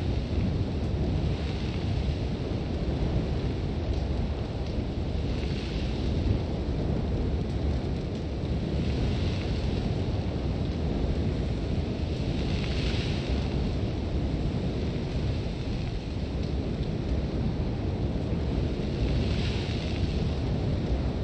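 Sandstorm wind rumbling steadily and heavily, with blown sand hissing against a tent in swells that rise and fade every few seconds.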